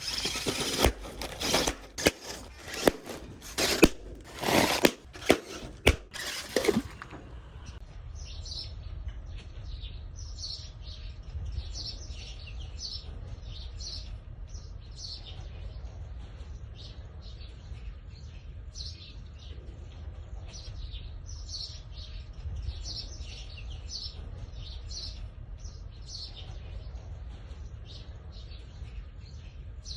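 A run of loud knocks and rushing bursts for about seven seconds, then birds chirping over and over against a low steady rumble.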